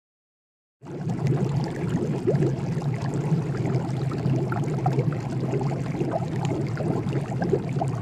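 A steady hissing, crackling noise over a low hum, starting about a second in.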